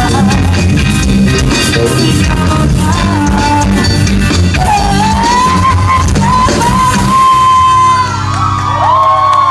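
Live band playing the close of a song, with a long held note in the last few seconds. Shouts and whoops rise near the end as the song finishes.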